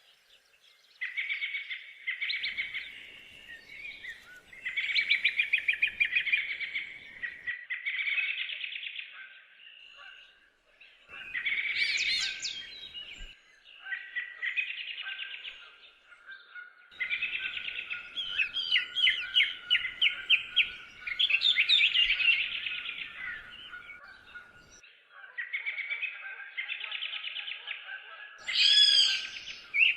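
Songbirds singing: short, rapid trilling phrases of a second or two each, repeated with brief pauses between them. A steady high thin note runs under the songs in the second half.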